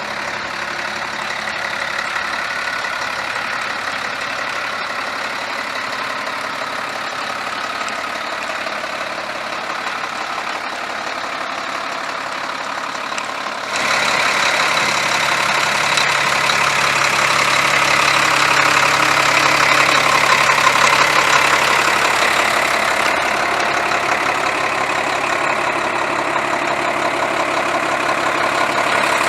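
Diesel engine of a 2003 Nissan UD 2000 ramp truck idling steadily. About halfway through, the sound abruptly becomes louder and brighter, then holds steady at the new level.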